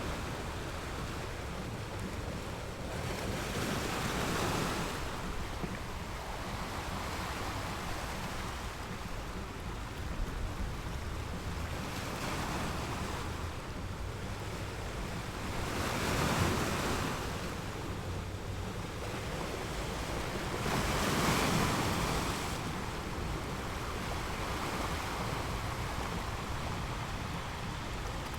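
Sea surf breaking on a sandy beach, a continuous wash with three louder swells as waves come in, about four seconds in, past the middle, and about three-quarters through. Wind rumbles low on the microphone throughout.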